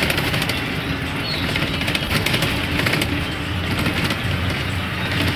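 Bus in motion heard from inside the cabin: a steady engine and road rumble with a continuous light crackling over it.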